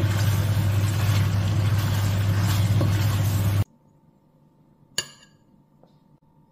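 Tortellini in tomato sauce sizzling in a frying pan while being stirred with a wooden spatula, over a steady low hum that is the loudest part. The sound cuts off suddenly about three and a half seconds in; near the end a single sharp clink rings on a ceramic plate as a tortellino is set down.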